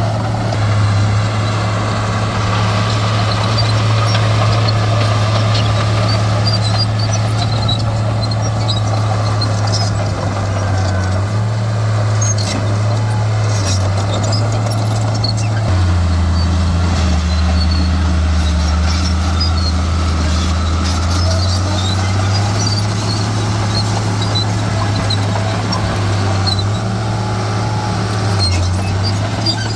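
Heavy diesel earthmoving machinery running steadily, its low engine note dropping for a few seconds about halfway through and then coming back up.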